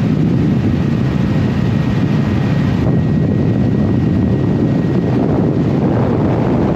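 Loud, steady engine noise of a vehicle under way, with a faint, steady high whine over it.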